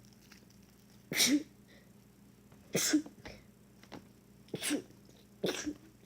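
Four short, breathy bursts of a person's voice, sneeze-like, about a second and a half apart, each ending in a brief voiced sound.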